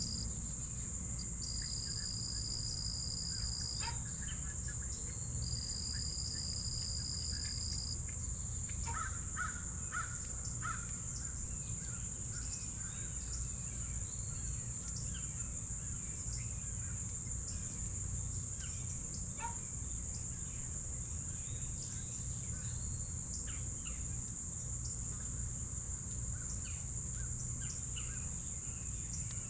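A steady high insect trill, typical of crickets, runs throughout, with a second, lower trill switching on and off twice early on. Short harsh bird calls come in a cluster around the middle, over a low outdoor rumble.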